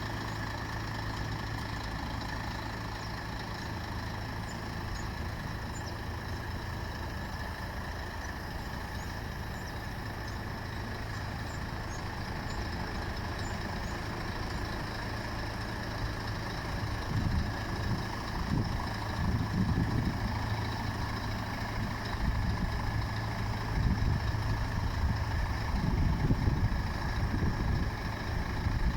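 Scania G420 truck's diesel engine idling steadily. In the second half, uneven low rumbling surges come and go over the idle.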